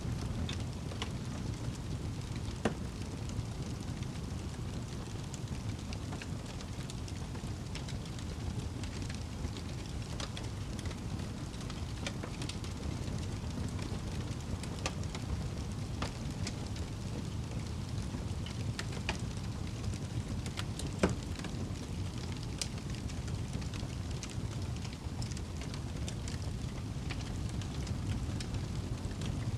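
Fireplace fire crackling over a steady low rumble, with scattered small pops and two louder snaps, about three seconds in and about twenty-one seconds in.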